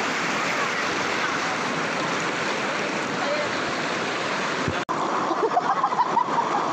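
Steady rush of a flowing river. It breaks off abruptly for an instant about two-thirds of the way through, then returns choppier and more uneven.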